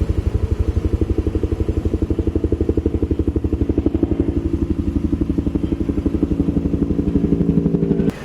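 Helicopter flying close by, its rotor making a fast, even beating thump over a steady engine tone; the sound cuts off suddenly near the end.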